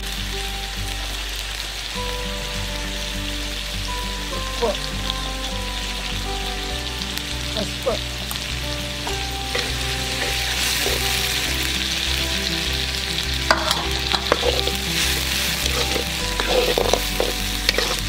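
Goat lung and liver pieces sizzling in hot oil in a black iron kadai, with a metal spatula scraping and clinking against the pan as they are stirred. The sizzle grows louder about halfway through, and the clinks of the spatula come more often near the end.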